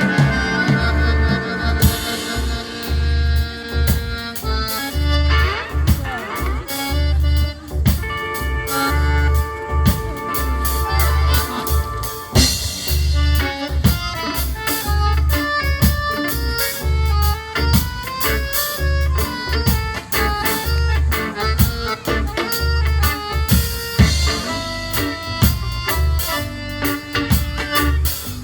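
Live folk dance band playing an instrumental passage: an accordion melody over guitar, a pulsing bass line and drums.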